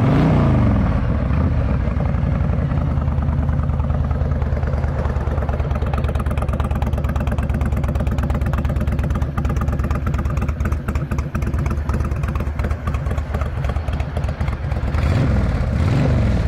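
2006 Honda VTX 1300's liquid-cooled, carbureted V-twin running through aftermarket Cobra exhaust pipes. A blip of the throttle dies away at the start, the engine idles steadily, then it is revved up and back down again near the end.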